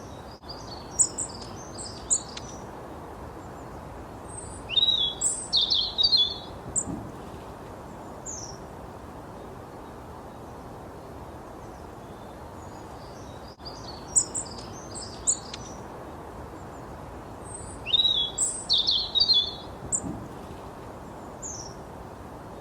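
A songbird chirping and tweeting in quick bursts of short high notes. Two bouts of chirps about four seconds apart repeat nearly identically some thirteen seconds later, as in a looped recording, over a steady background hiss.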